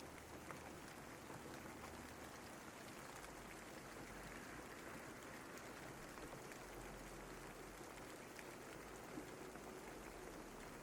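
Steady, fairly soft rain falling, with scattered individual drops ticking through it.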